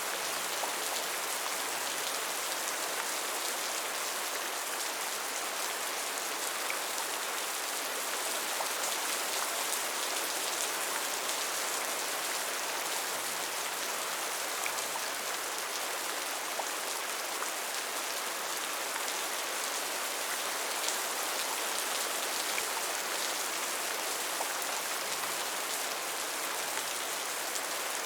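Steady rain falling, a dense even hiss of drops with many small individual patters on surfaces.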